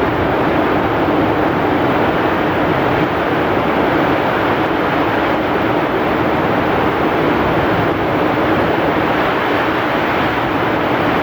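Heavy rain pouring in strong wind: a steady, dense rushing noise with no single drops or gusts standing out.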